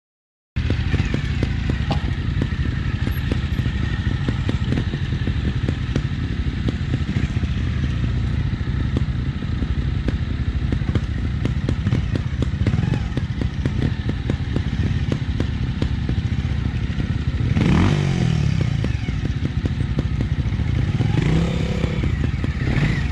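Trials motorcycle engine running at low revs with a dense clatter, revved up briefly twice, about three-quarters of the way through and again near the end.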